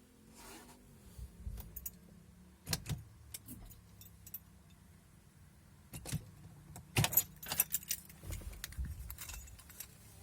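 Scattered clicks, knocks and light rattles of small hard objects being handled inside a car, with a cluster of several quick clicks about seven seconds in, over a faint steady low hum.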